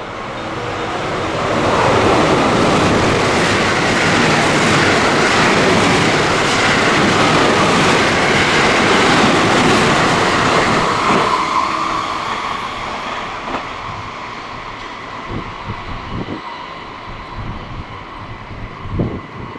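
Train passing through a station at speed: a loud rush of wheels on rails builds over the first two seconds, holds for about ten seconds, then dies away. A few sharp clicks follow near the end.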